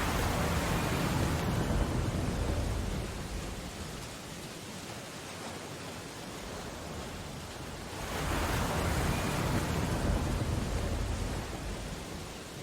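Steady hiss of rain on window glass under the wash of a stormy sea, with two heavy ocean waves crashing and rolling out, one at the start and one about eight seconds in.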